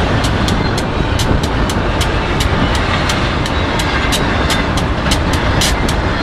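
BNSF double-stack intermodal train passing at speed: a steady rumble of wheels on rail with a quick train of sharp clicks, several a second, as wheels cross rail joints.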